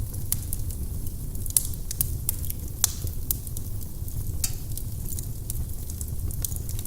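Firewood burning in a fireplace: steady low rumble of the flames with frequent sharp crackles and pops, two of them louder, about a second and a half and nearly three seconds in.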